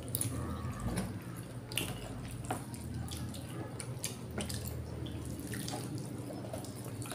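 Wet chewing and lip-smacking of several people eating with their hands: a string of short, sharp mouth clicks over a steady low hum.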